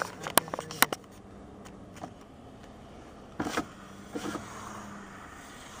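Inside a moving car: steady road noise, with a quick run of sharp clicks and knocks in the first second and two short rattling bumps about three and a half and four seconds in.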